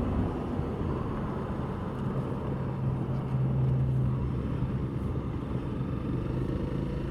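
Honda CRF300L Rally's single-cylinder engine running steadily under way, with wind and road noise; the engine note holds one steady pitch, a little louder for a few seconds in the middle.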